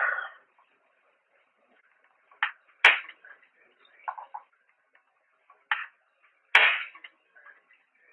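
Two sharp clicks about four seconds apart, each followed by a brief ring, with a few short, faint muffled sounds between them.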